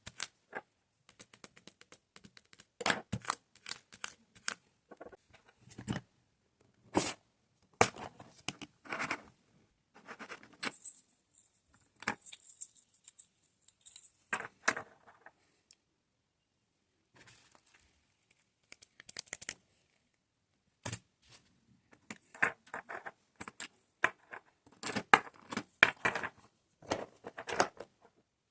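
Diamond painting at work: small resin drills and plastic tools clicking, tapping and rattling in irregular bursts, with short rustles between and a few quiet pauses.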